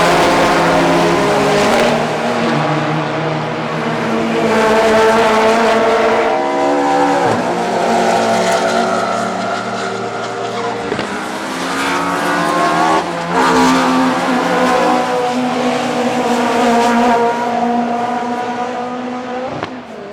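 Classic DTM touring race cars running past one after another, their engines rising and dropping in pitch as they rev up and back off, with the sound fading near the end.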